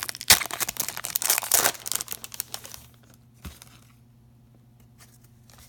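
Foil trading-card pack being torn open and crinkled, a dense run of crackling for about three seconds with one more click after it.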